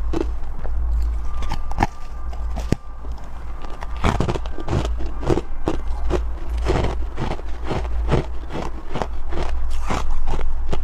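Soft, powdery freezer frost being bitten and chewed close to the microphone: a run of crisp crunches, sparse for the first few seconds and coming thick and fast from about four seconds in. A steady low hum runs underneath.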